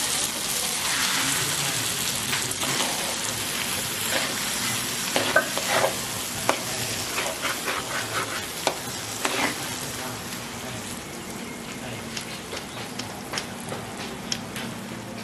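Thick chili paste sizzling as it fries in a wok, stirred with a metal spatula whose blade scrapes and clicks against the pan, most often in the middle. The sizzle slowly dies down.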